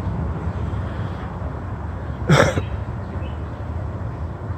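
Low steady rumble of street traffic, with one short cough from a person about two seconds in, the loudest sound here.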